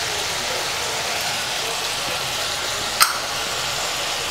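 Chopped onion and tomato frying in oil in a kadai, a steady sizzle, with one sharp click about three seconds in.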